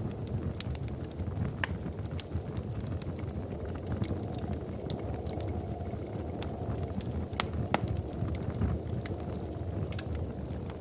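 Wood fire crackling in a fireplace: a steady low rush of flame with scattered sharp pops and snaps, two louder pops about two-thirds of the way through.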